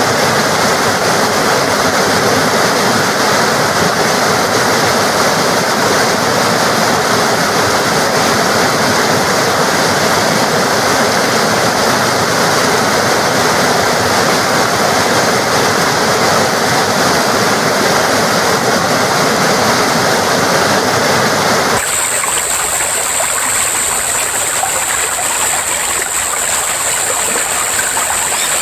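Forest stream water flowing steadily. About three-quarters of the way through, the sound changes abruptly to a thinner, hissier water sound with less depth.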